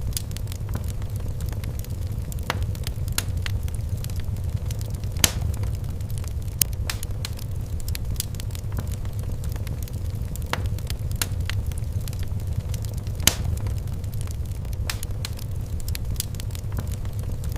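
Wood fire crackling in a fireplace: irregular sharp snaps and pops over a steady low rumble, with a few louder pops now and then.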